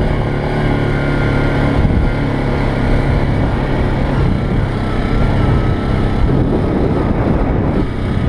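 ATV engine running steadily under way, with a faint wavering whine above the engine note.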